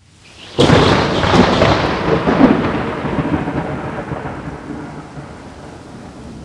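A thunderclap: a sharp crack about half a second in, then a rolling rumble with a few louder peaks over the next two seconds, slowly dying away.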